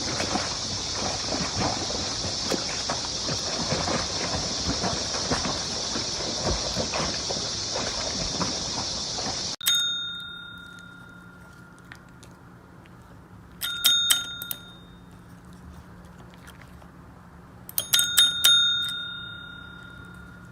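A steady hiss with faint crackling for about the first half, which cuts off suddenly. Then a small metal bell dings once, followed later by two clusters of quick rings, each ringing out for a moment.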